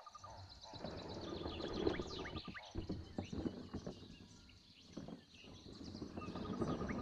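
Birds chirping, with many short high chirps and a rapid trill, over a rushing noise that swells up and fades away twice.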